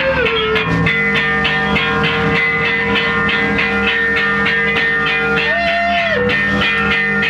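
A live rock band playing with electric guitar, held notes over a quick, steady beat of about four strokes a second; a sustained note bends up and back down about five and a half seconds in.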